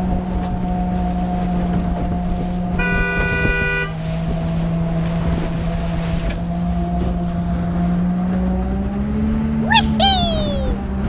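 Boat engine sound effect: a steady low motor drone, with a ship's horn blast lasting about a second around three seconds in. A short rising-then-falling whistle follows near the end.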